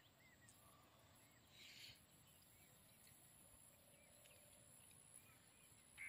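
Near silence: a quiet wetland with a few faint, short bird chirps scattered through it and a brief soft hiss a little under two seconds in.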